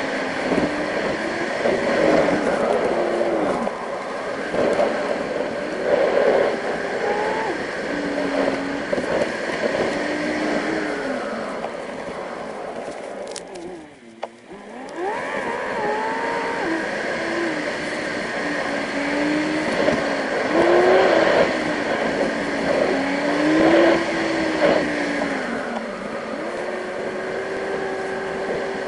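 Car engine heard from inside the cabin, its note rising and falling again and again as the car accelerates and eases off, over steady road noise. About halfway through, the sound drops away briefly, with a click.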